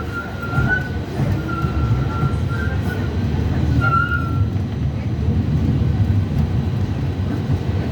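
Tram wheels squealing on a curve: a thin, high squeal that comes and goes over the first four seconds and then stops, over the steady rumble of the tram running on its rails.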